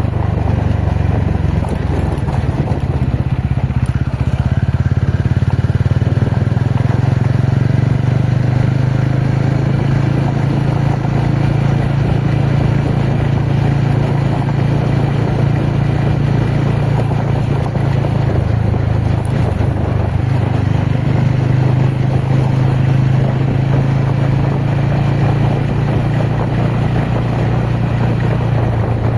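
Ronin motorcycle's engine running steadily under way, with a strong low drone that holds fairly even throughout.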